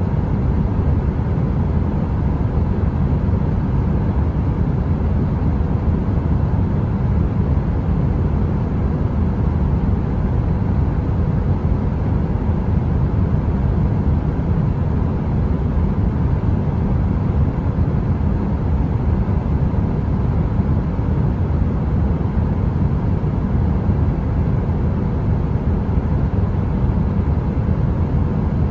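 Steady heater white noise: an even, low-pitched rush with a faint steady hum above it.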